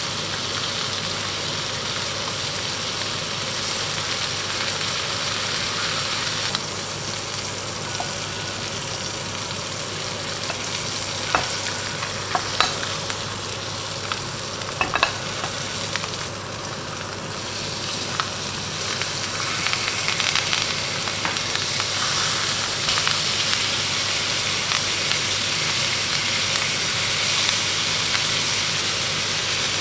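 Pork steaks sizzling in hot oil in a frying pan, with garlic cloves and thyme in the pan. A few sharp clicks come near the middle, and the sizzle grows louder about two-thirds of the way through.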